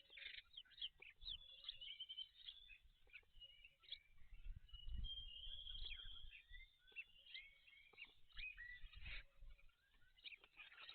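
Faint wild bird chorus: many short chirps and whistled phrases from several birds, overlapping throughout, with a low rumble about five seconds in and again around nine seconds.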